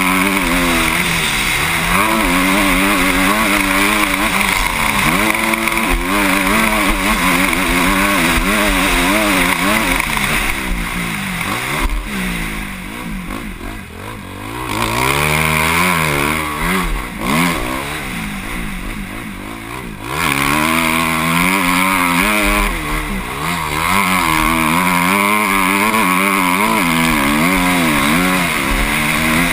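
Motocross bike engine revving hard and easing off again and again as the bike races round the track, its pitch rising and falling with each burst of throttle. Twice near the middle it goes quieter for a few seconds as the throttle is rolled off, then picks up again.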